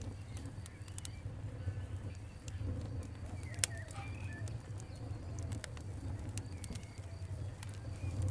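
Wood fire crackling: irregular sharp pops and snaps over a low, steady rumble of the flames. A few short bird calls sound faintly behind it, around the middle and near the end.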